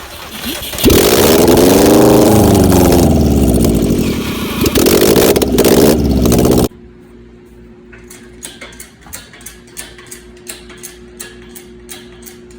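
An engine comes up loud about a second in and revs up and back down, then cuts off abruptly after about six seconds. After that, light regular ticking at about three a second over a steady hum.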